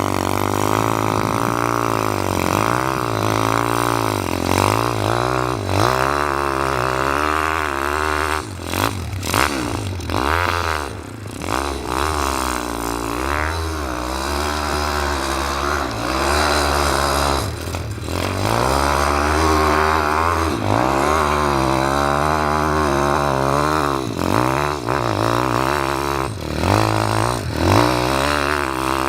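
Pit bike engine revving up and down over and over as it is ridden, its pitch rising and falling every second or two. There are a few brief drops in the middle, where the throttle is eased off.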